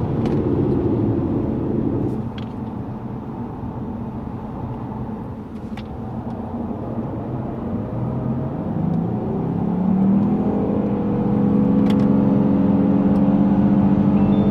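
Lexus GS450h's V6 hybrid powertrain driving on a track: the engine drone eases off for several seconds, then about eight seconds in its pitch rises under acceleration and holds steady and louder.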